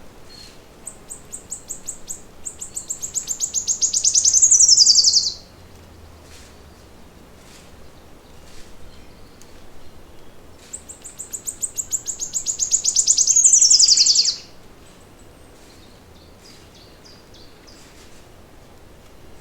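A songbird singing two long songs, each a high trill of rapidly repeated notes that speeds up and grows louder before sweeping down in pitch and stopping abruptly. The first song comes about a second in and the second about eleven seconds in. Faint scattered chirps sound between them.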